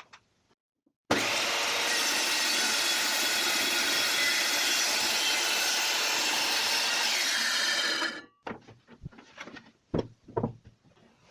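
Circular saw cutting laminated particle board, starting abruptly about a second in and running steadily for about seven seconds before stopping. A few faint knocks follow.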